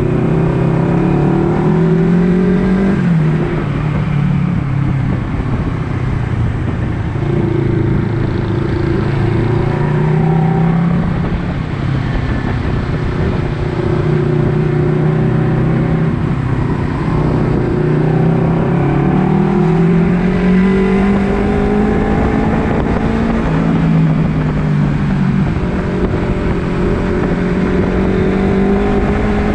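Honda CBR250RR sport bike engine under way, its pitch climbing as it revs and dropping back several times as it shifts gears, with stretches of steady cruising between.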